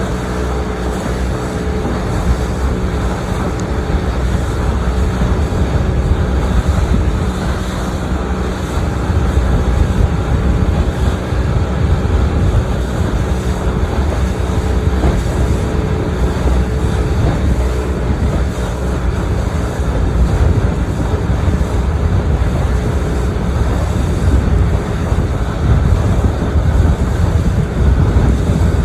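A motorboat's engine runs steadily as the boat cruises, with wind buffeting the microphone and water rushing past the hull. The engine's hum is clearer in the first half and sinks into the wind noise later on.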